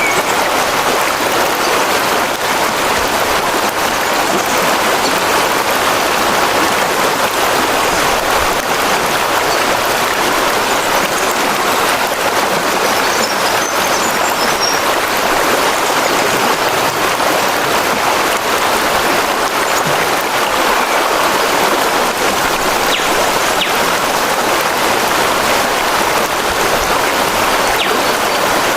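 Water rushing steadily, as a stream or brook does.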